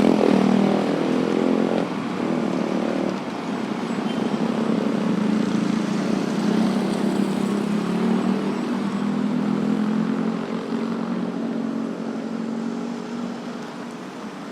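Road traffic of motorbikes and cars with engines running. One vehicle passes close at the start, its engine pitch sweeping past, and the engines settle into a steady hum that fades slightly near the end.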